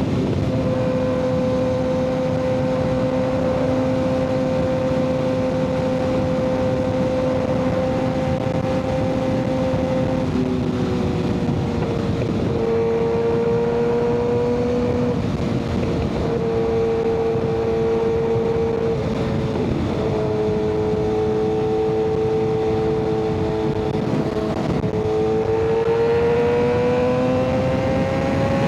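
Kawasaki ZX-6R 636 inline-four engine through an M4 aftermarket exhaust, riding along. The engine note holds steady for about ten seconds, dips and changes pitch a few times in the middle, and climbs steadily near the end as the bike accelerates.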